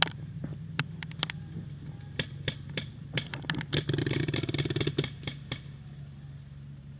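Paintball gunfire: scattered sharp pops and cracks of markers firing and balls striking, then a rapid burst of fast fire lasting about a second and a half, a few seconds in. A steady low hum runs underneath.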